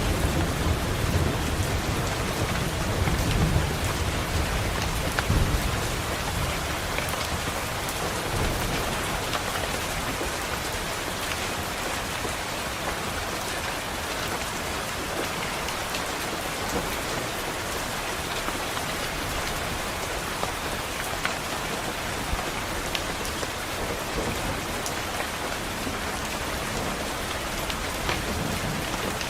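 Steady rain pattering on a window, with a low rumble of thunder in the first few seconds that fades away. Sharp little ticks of drops stand out here and there.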